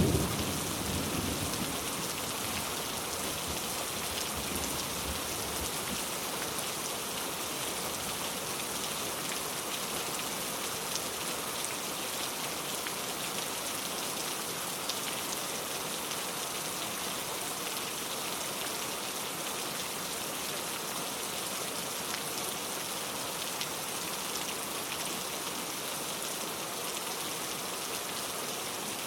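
Steady heavy rain, an even hiss of drops falling on surfaces. A low rumble, the tail of thunder, dies away over the first couple of seconds.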